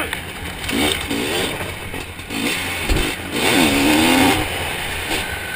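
Zabel 700 two-stroke motocross sidecar engine revving hard, its pitch rising and falling several times with throttle and gear changes, with wind and chassis rattle from riding over rough ground and a low thud about three seconds in.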